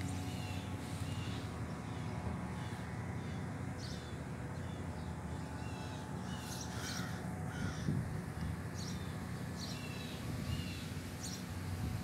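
Birds calling outdoors: short, repeated calls scattered throughout, over a steady low background rumble.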